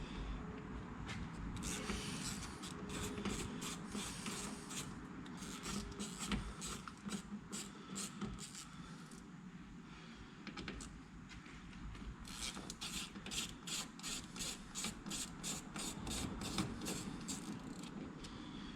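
T25 Torx bit turning out the side-mirror mounting screws on a Ford Escape door, a bit slightly too small for the screw heads. Metal rubs and grinds, broken by two long runs of quick, even clicks, about three or four a second.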